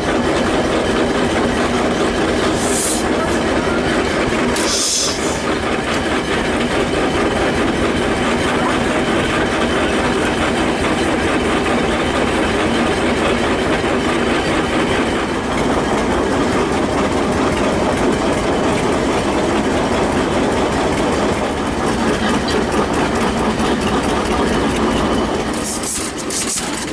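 1917 experimental Waterloo Boy bathtub tractor's engine running steadily, growing somewhat quieter near the end.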